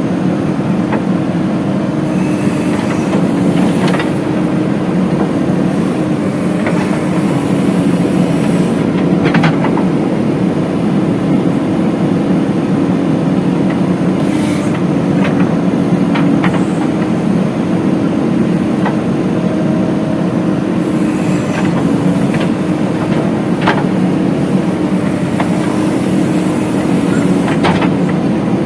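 JCB 3DX backhoe loader's diesel engine running steadily under work, with sharp knocks every few seconds as the loader works the soil.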